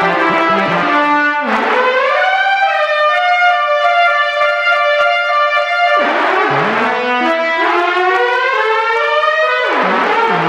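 Synthesized, horn-like tones imitating an ACA Hurricane warning siren, sounding several pitches at once like a chord. The pitch steps around, glides up about 1.5 s in, holds, drops sharply about 6 s in and climbs again in steps, then swoops once more near the end: the siren imitation breaking down instead of a clean hi-lo.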